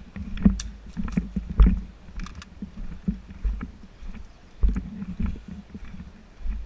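Footsteps and movement noise from a body-worn camera: low thumps at a walking pace, about one every half second or so, with rustles and light clicks. The thumps are strongest in the first two seconds.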